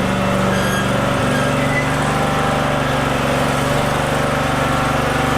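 Kohler Command V-twin engine of a Cub Cadet lawn tractor running steadily on its rebuilt carburettor, its note shifting slightly about a second in.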